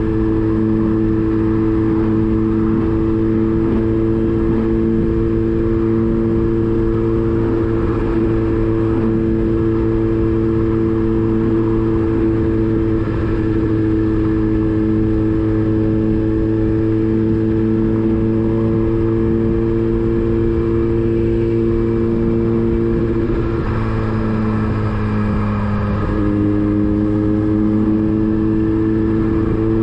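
Motorcycle engine pulling at a steady cruising speed, with wind and road noise. Its note drops briefly a little past two-thirds of the way through as the throttle eases off, then rises again near the end as it accelerates.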